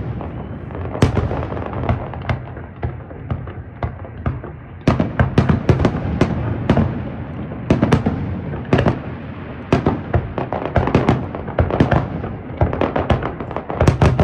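Aerial fireworks display: shells bursting in rapid volleys of sharp bangs, with crackling between them. The bursts thin out to a softer crackle from about two to four seconds in, then return in dense runs.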